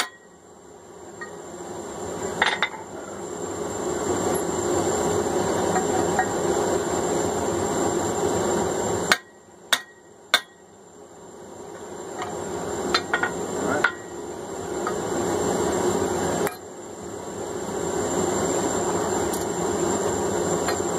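Forced-air gas forge running with a steady roar that builds up, cuts out abruptly twice and builds again, with a few sharp metal clinks.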